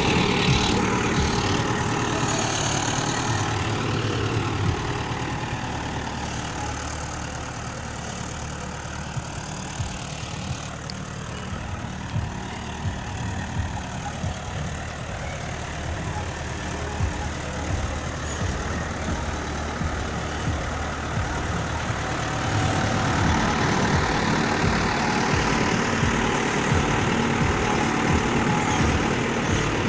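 Tractor engine running steadily at a low, idle-like speed. It grows quieter for a stretch in the middle, then louder again about three-quarters of the way through.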